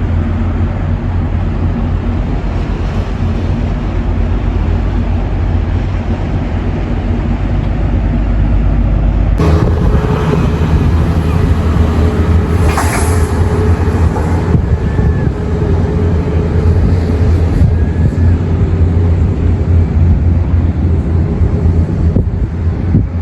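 A vehicle engine running steadily, with wind noise over it. About nine seconds in the sound changes suddenly to a different engine note with a hiss on top.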